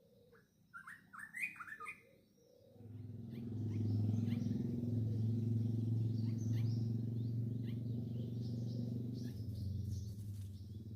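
Small birds chirping: a quick burst of loud chirps about a second in, then many short high chirps, typical of nestlings begging for food. About three seconds in, a low steady hum starts and runs under the chirping as the loudest sound.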